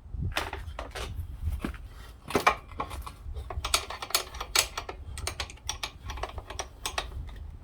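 Irregular metallic clicks and taps of hand tools and parts being handled during bicycle pedal work, over a low steady rumble.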